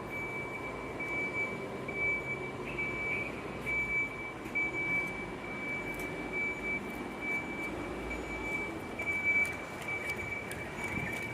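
Volvo FE 300 recycling truck's diesel engine running steadily, with a continuous high-pitched whine over it that swells and fades.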